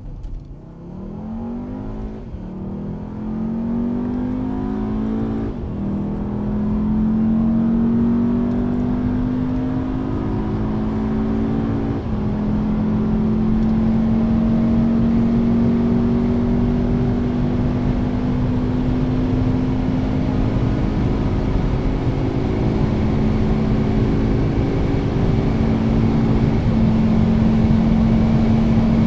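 Volkswagen Beetle's 2.0 TSI turbocharged four-cylinder pulling at full throttle from near standstill, heard from inside the cabin. Its pitch climbs through each gear and drops suddenly at four quick DSG upshifts: two close together early on, one about twelve seconds in, and the last near the end. In the higher gears the pitch rises only slowly.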